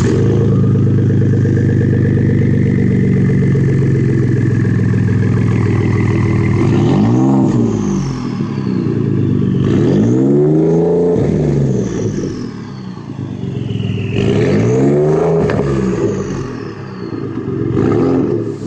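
Ford F-150 EcoBoost 3.5-litre twin-turbo V6 through a prototype dual 3-inch catback exhaust with round smooth-tube mufflers and slash-cut tips: idling steadily, then revved three times, the pitch rising and falling with each rev. A faint high whistle falls away after each rev.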